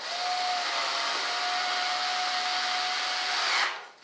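A steady hiss of rushing air with a faint whistling tone, starting abruptly and cutting off after about three and a half seconds.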